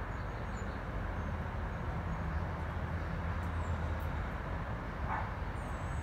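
A steady low rumble and hiss, with a few faint, high, short falling chirps from a bird near the end.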